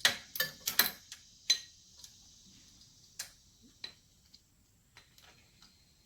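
Scattered sharp metallic clicks and taps from hand tools and bolts working on a car's rear wheel bearing hub assembly, several close together in the first second and a half, then fainter, sparser ticks.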